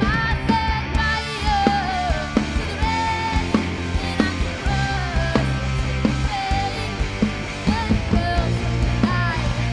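Live band playing a rock arrangement: drums keep a regular beat under steady bass notes, with a gliding lead melody on top.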